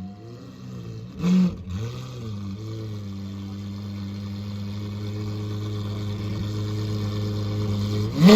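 Lamborghini Aventador V12 engine with a short loud burst about a second in and a few brief throttle blips. It then settles to a steady idle that grows slowly louder, and a sharp rev climbs just at the end.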